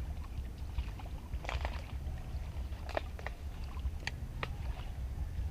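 Scattered light splashes and clicks over a steady low rumble as a hooked tilapia is brought in and handled. The splashing and clicking cluster through the middle.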